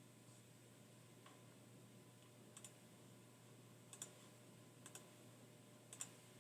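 Near silence with a faint room hum and several faint, sharp clicks about a second apart, as of keys or buttons being pressed on a computer.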